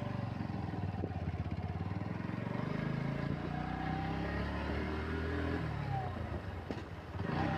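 Motorcycle engine running, its pitch rising and falling as it revs.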